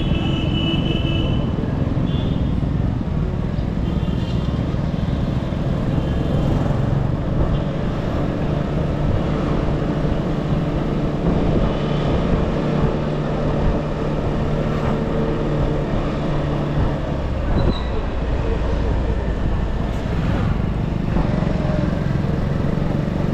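TVS Pep+ scooter's small single-cylinder engine running under way with road and traffic noise. The engine note holds steady, then drops about seventeen seconds in as the scooter eases off.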